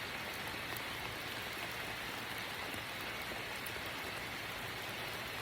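Steady rain falling: an even, unbroken hiss with faint fine drop ticks.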